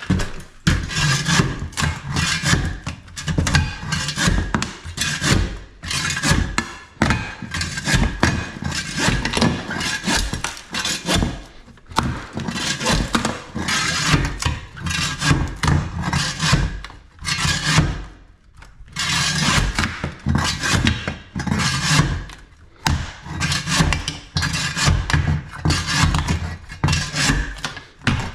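Repeated scraping and rubbing strokes, with occasional knocks, irregular and each lasting about half a second to a second.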